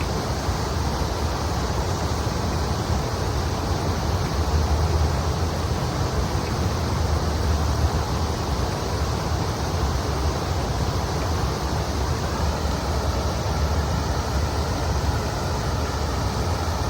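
River water flowing steadily, a constant rushing hiss with a low rumble beneath it.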